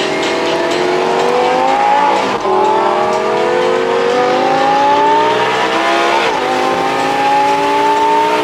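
Sports car engine accelerating hard through the gears: the engine note climbs steadily, drops sharply at each of two upshifts about four seconds apart, then climbs again, and falls off again right at the end.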